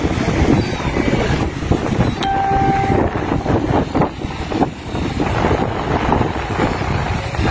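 Wind buffeting the microphone in loud, gusty rumbles, with a brief steady high tone a little over two seconds in.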